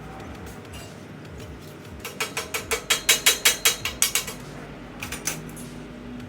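A quick run of a dozen or so sharp mechanical clicks, about six a second, lasting around two seconds, then two more clicks a second later, like a ratchet being worked.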